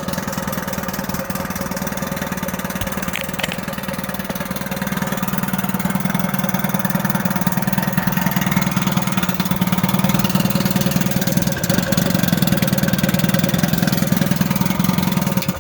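1956 Evinrude Fastwin 15 hp two-cylinder two-stroke outboard running in a test tank after a warm start. It gets louder about seven seconds in, then cuts out suddenly at the very end.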